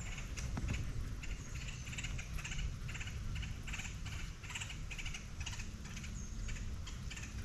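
Wind buffeting the microphone as a steady low rumble, with a rapid, even run of short high-pitched ticks, about four a second.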